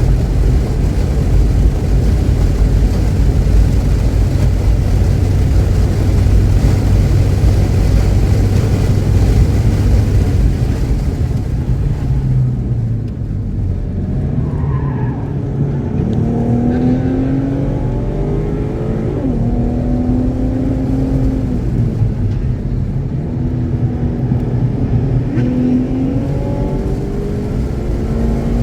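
Race car engine at speed: a steady, loud drone with heavy wind and road noise, then about twelve seconds in it drops away and climbs again in several rising pitches as it pulls up through the gears. The engine runs clean, without misfiring.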